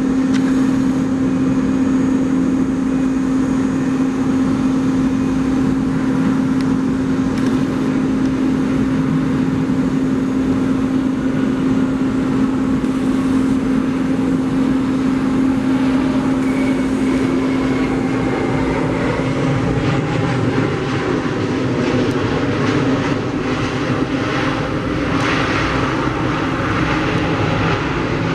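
Jet airliner engines running: a steady rushing noise under a constant low hum. The hum fades out about twenty seconds in while the rushing noise carries on.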